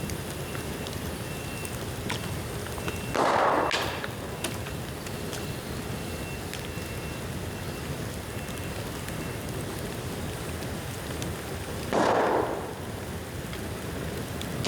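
Bamboo bonfire burning: a steady hissing crackle with many small snaps, like rain. Two brief louder rushes of noise come about 3 seconds and 12 seconds in.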